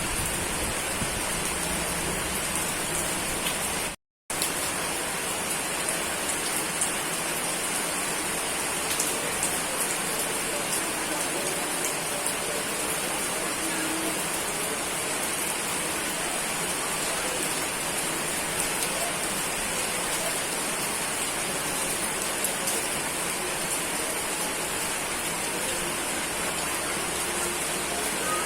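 Steady heavy rain falling on surfaces, with scattered drop ticks; the sound cuts out completely for a split second about four seconds in.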